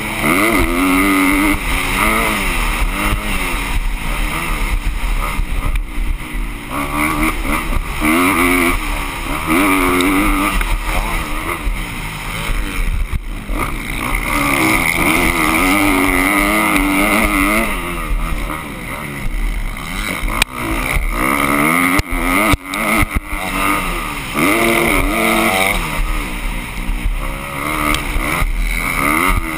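Motocross bike engine revving up and down through the gears as it rides, its pitch repeatedly rising and falling.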